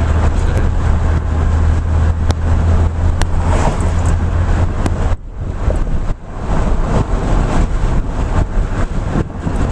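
Car driving, with steady road and engine rumble heard from inside the cabin; the deep rumble drops away about five seconds in, and small handling knocks on the microphone come through.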